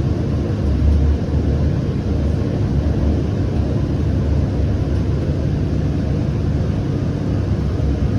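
Siemens S700 light rail car running between stops, heard from inside the cabin: a steady low rumble of the car rolling on the rails.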